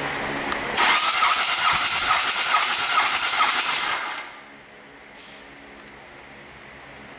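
A loud hiss for about three seconds that cuts off, then a short second hiss about a second later, over a quieter steady machine hum.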